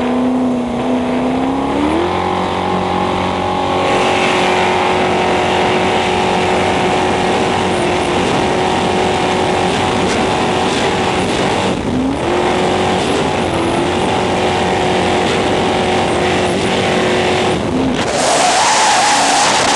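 Motorboat engine revving up about two seconds in and holding a steady high-speed drone, with a brief dip in revs around the middle. A loud rushing hiss joins in near the end.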